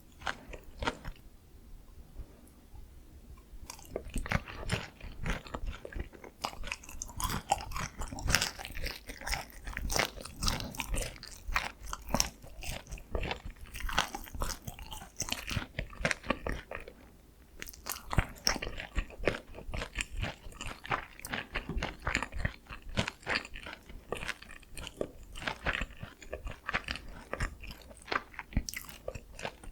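Close-miked crunching and chewing of sweet soy-glazed Korean fried chicken (dakgangjeong): crisp coating cracking in quick irregular crackles with each chew. Quieter for the first few seconds, then steady dense crunching, with a brief pause about two-thirds through.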